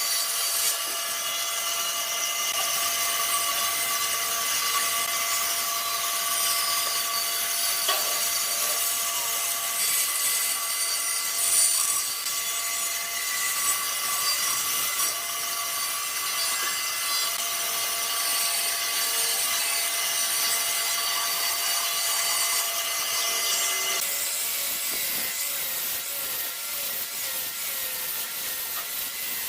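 A power tool working wood, running steadily with a constant whine over a rasping hiss; the sound changes and eases slightly about 24 seconds in.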